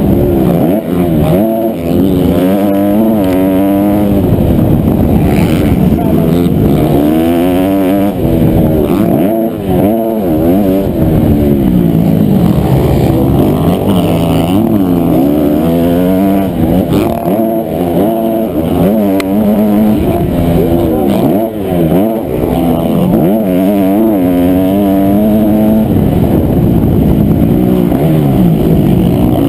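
Honda CRF250R single-cylinder four-stroke motocross engine, loud and up close, revving up and falling back over and over as the throttle is opened and shut through a lap.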